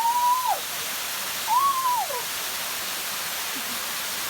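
Small waterfall and stream rushing steadily, with two clear whistled calls over it, each rising and then falling, one at the start and one about a second and a half in.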